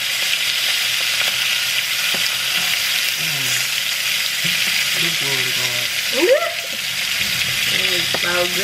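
Chopped onion, garlic, parsley and green onion sautéing in hot grease in a skillet, a steady sizzle as they are stirred with a spatula.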